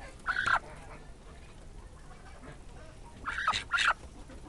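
Domestic birds calling: one short call near the start, then two short calls in quick succession near the end.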